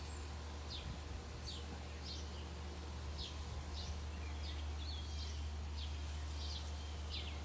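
A bird calling in a run of short, high, falling chirps, roughly one and a half a second, over a steady low rumble.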